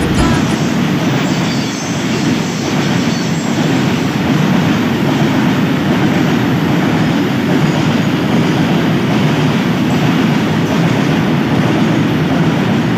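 Freight train running, its wagons rolling over the rails with a steady, loud, unbroken rolling noise.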